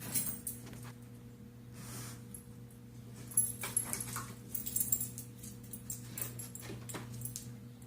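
A dog making faint sounds, with a few small clicks and rustles, over a steady low hum.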